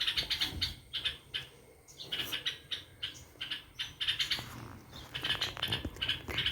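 Small birds chirping in rapid runs of short high chirps, several a second, with brief pauses between runs.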